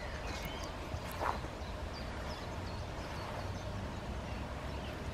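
Small birds chirping in short, scattered calls over a steady low rumble, with one brief knock a little over a second in.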